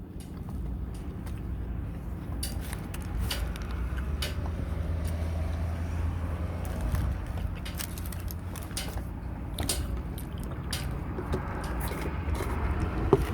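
A person chewing a bite of a McDonald's spicy snack wrap, with scattered small clicks and rustles, over a steady low hum.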